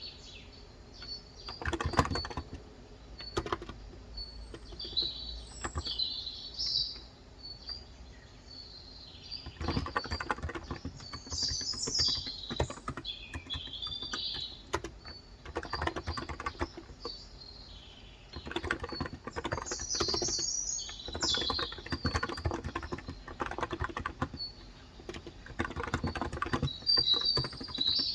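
Typing on a Cox Endeavor electrostatic capacitive (Topre-style) 35 g tenkeyless keyboard, in bursts of quick keystrokes with pauses between them. Small birds chirp on and off throughout.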